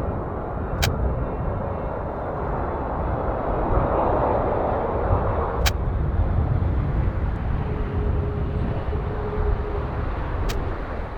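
Boeing 747-400F's four jet engines rumbling steadily as the aircraft arrives, the roar swelling about four seconds in. Three sharp clicks come roughly five seconds apart.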